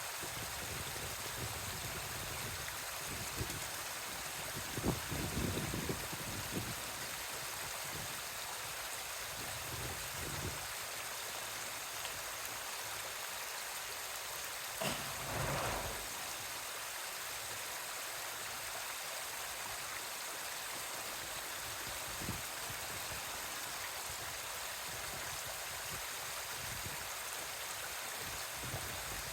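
Steady rush of running water, with a few short, louder low bumps about five and fifteen seconds in.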